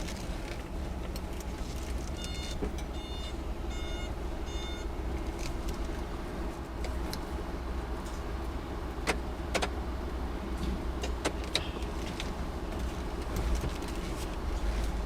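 Car running at low speed, heard from inside the cabin as a steady low engine and road rumble. A run of about five short electronic chime beeps sounds a couple of seconds in, and a few light clicks and rattles follow later.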